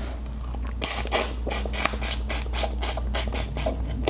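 Wet chewing and lip-smacking on boiled crawfish, a quick run of smacks at about four a second that starts about a second in and stops shortly before the end.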